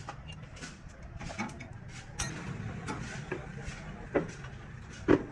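Scattered clicks and knocks of hands and tools working on a broken tractor rear axle, with two louder knocks near the end, over a steady low hum.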